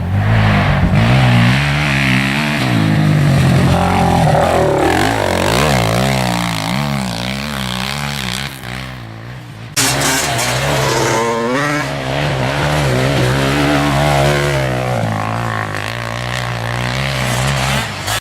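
Suzuki LT-Z400 quad's single-cylinder four-stroke engine, built out to 440, revving up and down as it is ridden, with an abrupt cut to a louder passage just under ten seconds in.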